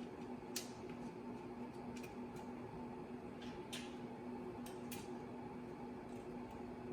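A few light, scattered metal clicks of clutch pressure-plate bolts and washers being handled and set in place, over a steady hum.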